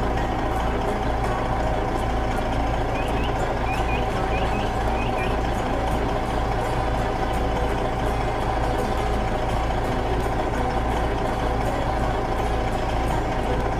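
Heavy truck engine running steadily, a low rumble with a constant whine over it.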